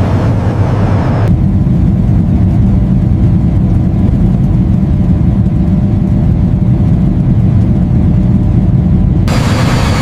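Loud, steady low engine rumble. About a second in the higher sounds drop away and it turns duller, then they come back near the end.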